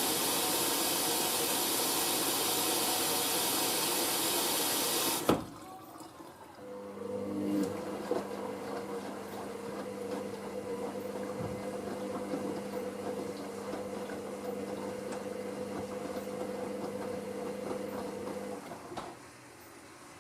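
Hoover SIX AAA160 washing machine taking in water early in its wash cycle: a loud, steady rush of water that cuts off suddenly about five seconds in. Soon after, a steady two-tone motor hum from the machine runs for about twelve seconds, then stops.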